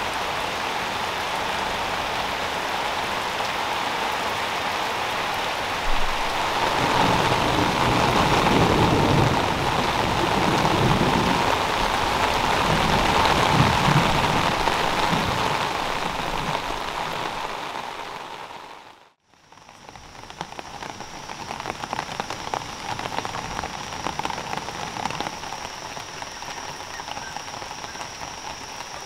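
Steady rain falling, growing heavier about six seconds in and then fading out about two-thirds of the way through. After a short gap, lighter rain continues with a thin, steady high-pitched whine running under it.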